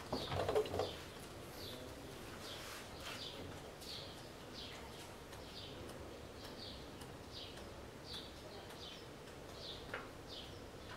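A small bird chirping over and over, short high notes about twice a second, each dropping slightly in pitch. A brief, louder, lower sound comes in the first second.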